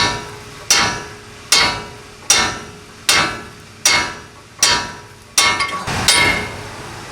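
A hammer striking steel parts on a medium-duty truck's front axle, with a steady run of about nine blows, a little more than one a second. Each blow rings briefly with a metallic tone.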